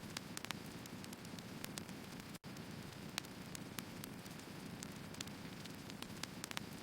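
Burning firewood crackling: a steady low hiss with frequent sharp crackles and pops. The sound cuts out for a split second about two and a half seconds in.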